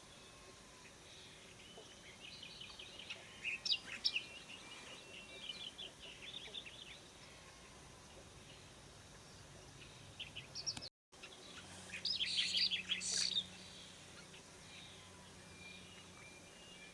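Starling chick chirping in rapid, high-pitched begging calls while being fed: two bouts of quick chirps, the second shorter and louder, with a brief dropout between them.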